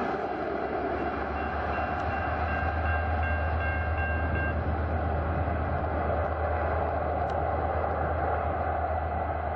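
V/Line passenger train, hauled by an A class diesel locomotive, running past and pulling away: a steady low diesel rumble under the noise of carriage wheels on the track. Faint high tones come in for a few seconds in the first half.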